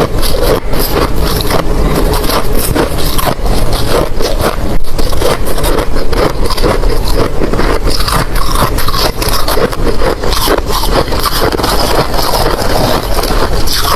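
Ice being chewed close to the microphone: loud, continuous crunching and crackling with no break.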